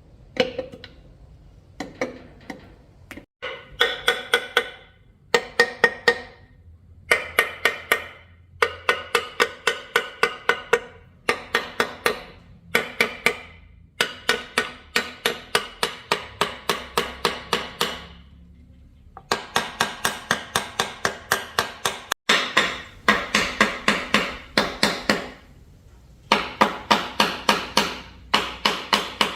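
A hammer striking metal in quick runs of blows, about four a second. Each blow rings briefly, and there are short pauses between the runs.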